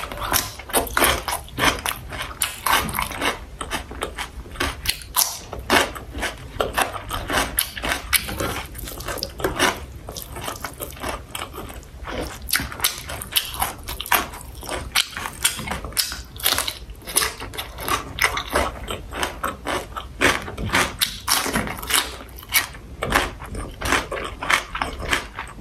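Close-miked chewing and mouth sounds of a person eating sausage with rice and vegetables: a dense, irregular run of sharp clicks and smacks.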